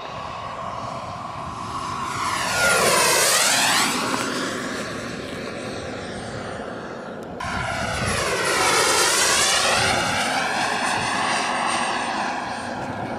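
Frank kerosene turbine of a large radio-controlled F-86 Sabre model jet, making two low passes. Each pass swells to its loudest as the jet goes by, while the high turbine whine drops in pitch.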